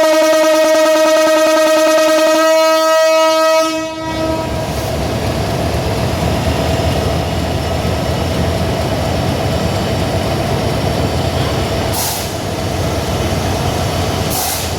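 Passenger train's locomotive horn sounding one long, steady blast that stops about four seconds in, followed by the steady rumble of the departing train and its wagons on the track. Two brief hisses come near the end.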